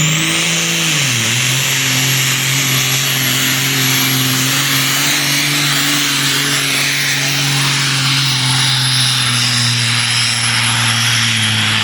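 Freightliner semi truck's diesel engine running hard under load on a pull. The engine note dips briefly about a second in, then holds steady with a high whine over it. It starts to fall away near the end.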